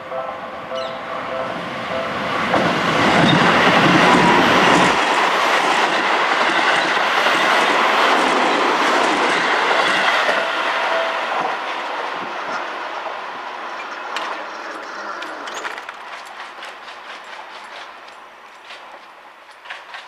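A Seibu 20000 series eight-car electric train passes over a level crossing while the crossing warning bell rings. The train rushes past loudest a few seconds in, wheels clattering over the rail joints. It then fades away, with regular clicks from the wheels as it moves off.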